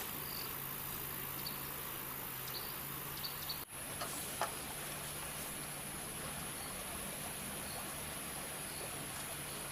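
Rural outdoor ambience dominated by insects chirring in a steady, high-pitched drone, with a few faint ticks and a brief break a little over a third of the way through.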